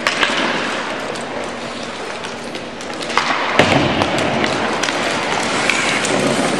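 Sledge hockey play on the ice: a steady wash of scraping with many sharp clacks of sticks and puck, the loudest hit about three and a half seconds in.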